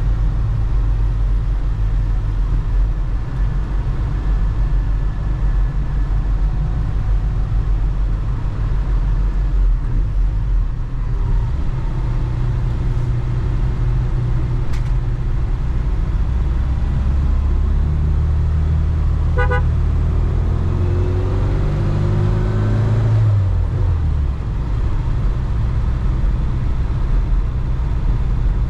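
A car driving with a steady low engine and road rumble. Partway through, the engine note climbs as it accelerates, then drops suddenly near the end, and a brief toot sounds.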